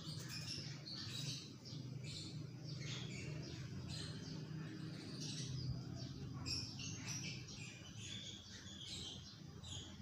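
Small birds chirping faintly in the background, many short calls scattered throughout, over a low steady hum.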